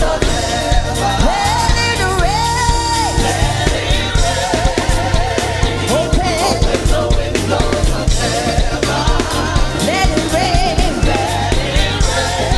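Gospel praise team singing with live band accompaniment over a steady beat. A solo voice holds a long note with vibrato a couple of seconds in, then carries on with ornamented melodic runs.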